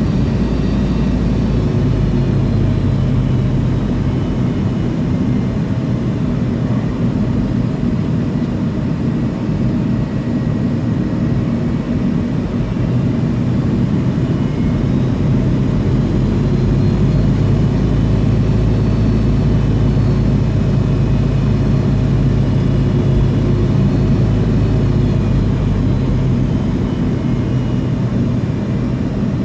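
Steady cabin noise of an MD-80 airliner with its rear-mounted Pratt & Whitney JT8D engines running at low power before takeoff. It is a loud, even rumble with a faint high whine that drifts slightly in pitch.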